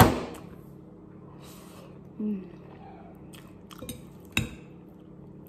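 Close-up chewing and mouth sounds of someone eating stir-fried instant noodles (pancit canton). A sharp clink of a metal fork against a ceramic bowl comes right at the start. A few sharp clicks follow near the end, the loudest about four seconds in.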